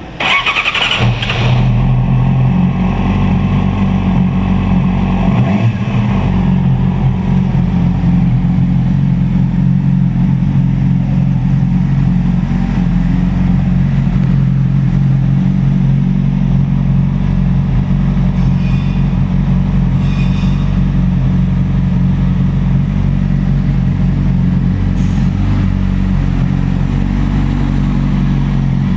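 2008 Yamaha YZF-R6's 599 cc inline-four sport-bike engine, fitted with an aftermarket M4 exhaust, starts up and settles into a steady idle.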